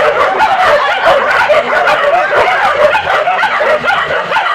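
A pack of village hunting dogs yelping and baying at once, many short high cries overlapping into a continuous clamour, typical of dogs giving tongue on a wild boar.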